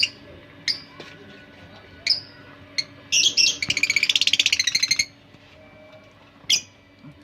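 Lovebirds calling: a few sharp single chirps, and a loud burst of very fast chattering notes lasting about two seconds a little before the middle.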